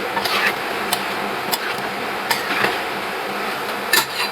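Scattered sharp taps and clinks of objects being handled, about five in four seconds, over a steady background hum.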